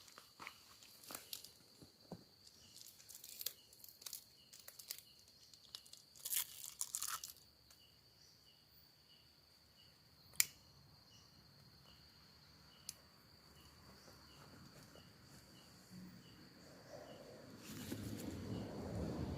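Crinkling and crackling of a handled cigarette pack over the first several seconds, then a couple of sharp single clicks, with insects chirping steadily in the background. Near the end a vehicle approaches and grows louder.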